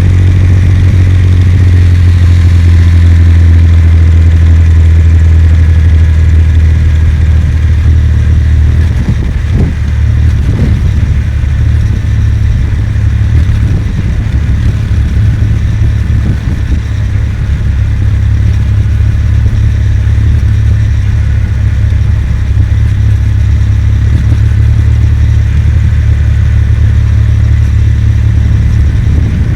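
Kawasaki W800 air-cooled parallel-twin engine running while the bike is ridden. For about nine seconds it holds a steady engine note. After that the sound turns into a rougher, more uneven low rumble mixed with noise.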